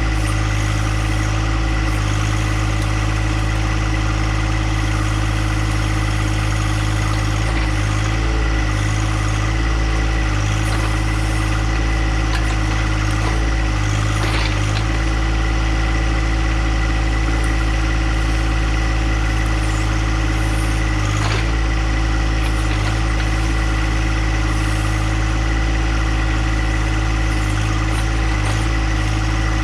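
Compact John Deere tractor's engine running steadily at constant speed, with a couple of faint ticks partway through.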